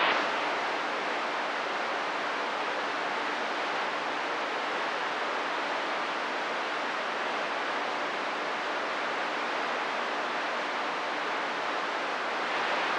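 CB radio receiver hissing with steady static between transmissions, with a faint steady hum underneath.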